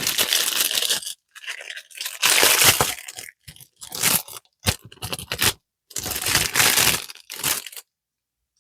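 Close-up crinkling and rustling handling noise in irregular bursts, as crafting materials are handled; it stops abruptly shortly before the end.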